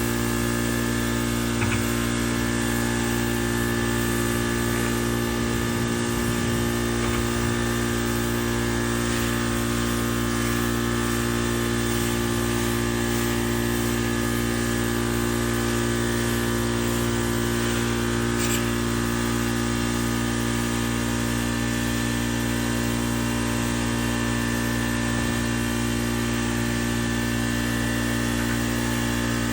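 A steady motor hum at one constant pitch.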